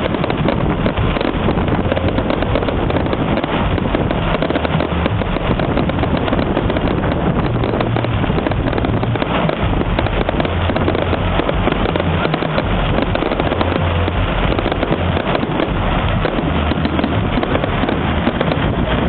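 Fireworks display going off continuously, a dense, steady crackling and popping of many bursts with no single large bang standing out.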